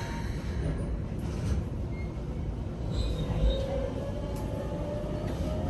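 Keikyu 1500 series train running under power: rumble of wheels on rail with a few joint clicks, and the Toyo GTO-thyristor VVVF inverter whine rising in pitch from about halfway through as the train accelerates.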